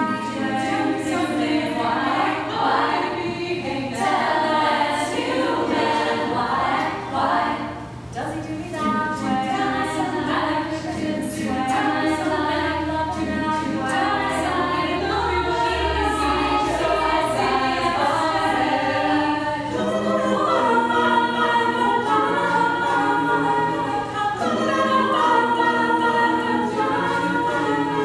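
A vocal group singing a song in layered harmony, a cappella, with several voices holding and moving between notes together.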